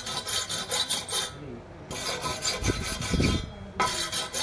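Hand-tool rasping on galvanized steel box pipe, such as filing, scraping or wire-brushing, in three spells of strokes with short pauses between, and a couple of dull knocks in the middle spell.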